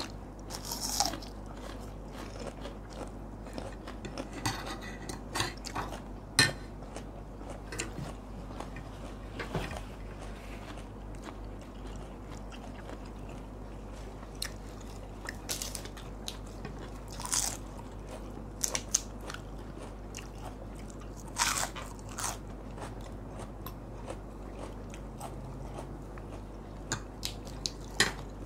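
People chewing and crunching food at a meal, with short, sharp crunchy bites every few seconds.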